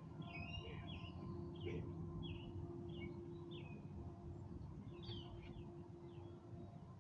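Songbirds chirping outdoors at dusk: many short, quick, falling chirps, busiest in the first few seconds, with another flurry about five seconds in. Underneath is a steady low rumble and a faint steady hum.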